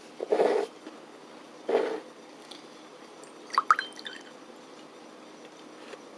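Juice sloshing in a bottle: two short liquid splashes, followed about three and a half seconds in by a brief high squeak.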